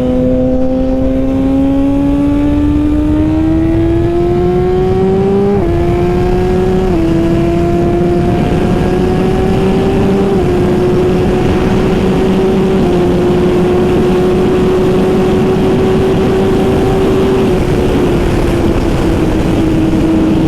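Suzuki GSX-R1000R's inline-four engine through a Brocks full exhaust system at full throttle: the engine note climbs and drops sharply with each of four quick upshifts, then holds nearly steady at high speed. Heavy wind rush on the microphone runs under it.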